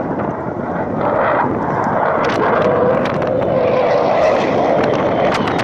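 Fighter jet's engine roar passing overhead, growing louder about a second in and holding at full strength.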